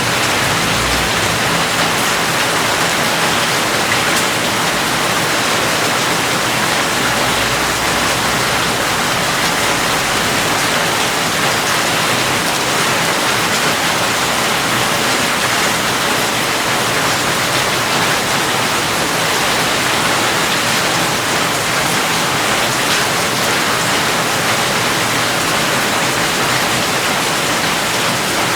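Steady heavy rain: a dense, even hiss of falling rain that does not let up.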